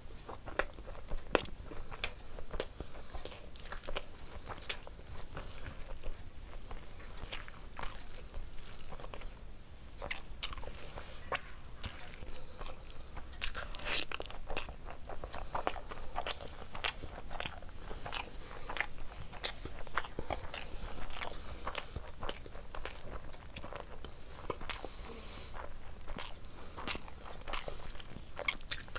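Close-miked chewing and wet mouth smacking of a person eating mouthfuls of rice and egg curry by hand, with many sharp, irregular clicks.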